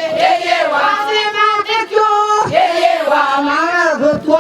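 High voices singing a melody in held, wavering notes.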